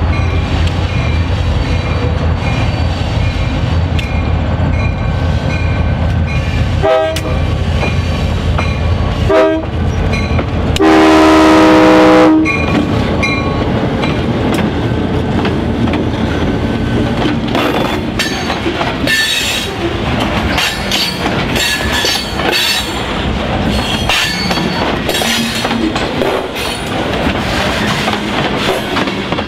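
EMD GP39-2 diesel locomotives approaching with their engines running, sounding the horn in two short blasts and then one long blast about eleven seconds in. As the engines pass, the freight cars roll by with wheel clatter and high squeals.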